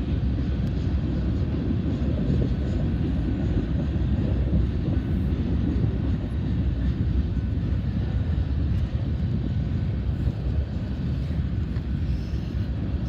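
Gusty wind buffeting the microphone: a steady low rumble that swells and eases slightly.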